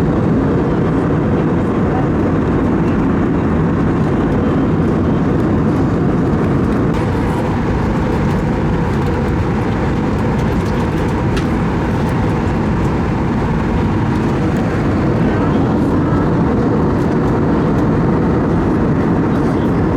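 Steady cabin noise of an Airbus A320neo airliner in flight: a constant low rush of engine and airflow noise with no distinct events.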